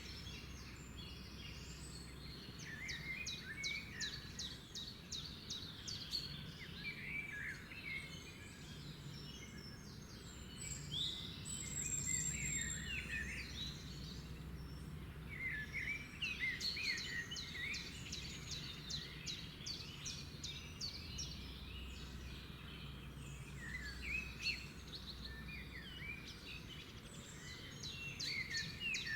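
Songbirds chirping and singing in spells of quick repeated chips, short trills and sliding whistled notes, over a steady low background rumble.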